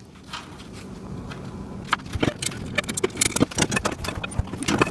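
Steel parts of a welding table clinking and rattling as a piece is fitted into place. It is quiet at first, then a run of quick metal clicks and knocks starts about two seconds in.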